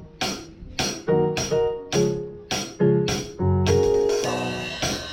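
A live band playing, led by keyboard chords struck in a steady rhythm with crisp percussive hits on the beats.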